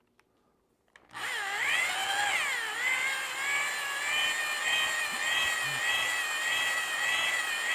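Electric drill spinning a stone cylinder hone inside an outboard cylinder bore wet with WD-40, the stones grinding the bore. The drill starts about a second in and runs steadily, its whine swooping at first and then wavering in pitch as the hone is worked up and down.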